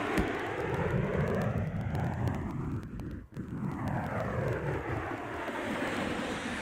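A propeller or jet aircraft passing overhead: a steady rushing engine noise with a sweeping, phasing quality that turns about halfway through as the plane goes over.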